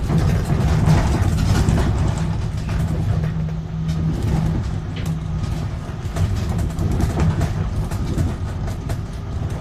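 Tram running on its rails, heard from on board: a steady low rumble with scattered clicks.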